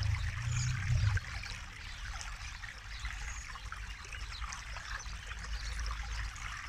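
Forest river flowing: a steady trickling, babbling rush of water, with a low rumble that is stronger for about the first second.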